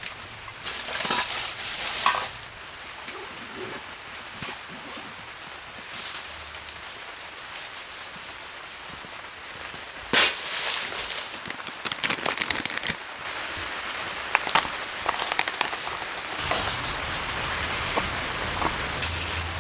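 Steady rain falling on the tent, a constant patter, broken by short bursts of crackling clicks about a second in, at about ten seconds (the loudest) and again at twelve, with scattered ticks toward the end.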